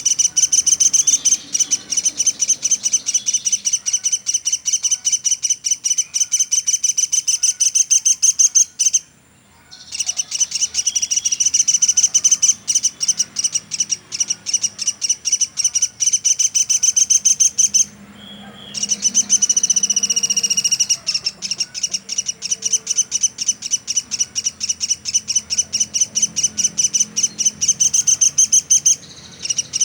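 Pelatuk sampit (velvet-fronted nuthatch) calling nonstop: a fast, unbroken run of sharp, high chipping notes, many to the second. The run pauses briefly three times, about nine, eighteen and twenty-nine seconds in.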